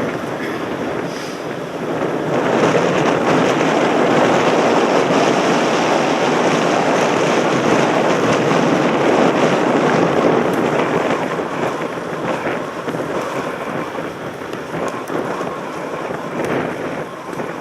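Wind rushing over a helmet-mounted camera's microphone on a mountain bike moving at speed. It grows louder about two seconds in and eases off again after about ten seconds.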